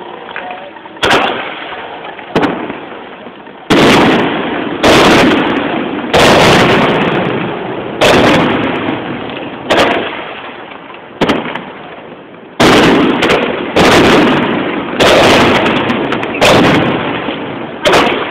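Aerial fireworks shells bursting: more than a dozen loud booms, one every second or so, each dying away over about a second before the next.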